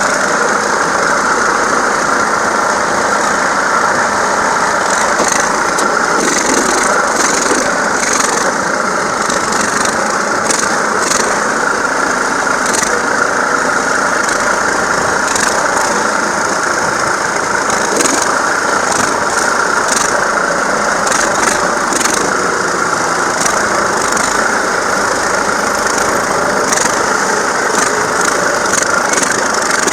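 Tractor engine running steadily, with irregular light rattles and clinks over it.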